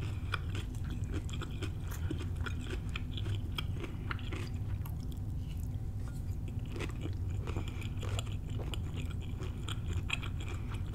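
A person chewing a mouthful of shrimp stir fry with rice, with many small mouth clicks picked up close to the microphone, over a low steady hum.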